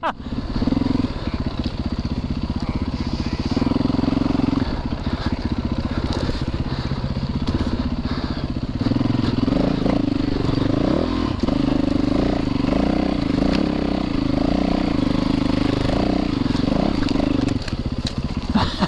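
Single-cylinder four-stroke dirt bike engine running under changing throttle while riding off-road, its pitch rising and falling. It pulls harder about a second in, again around four seconds, and for a long stretch from about nine seconds until shortly before the end.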